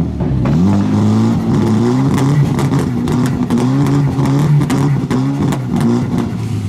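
Car engine being revved over and over, its pitch rising and falling repeatedly, with many sharp cracks scattered through the revs.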